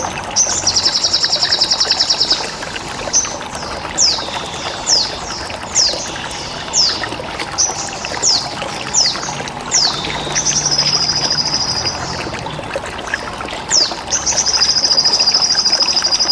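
Crimson sunbird song: short, sharp chirps that sweep downward, repeated every half second or so, with three longer buzzing trills (near the start, at about ten seconds and near the end), all over a steady trickle of running water.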